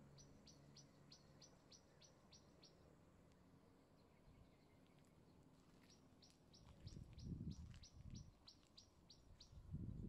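A small bird calling in two runs of quick, high, down-slurred notes, about four a second, the second run starting about six seconds in. Low rumbles come in over the last few seconds.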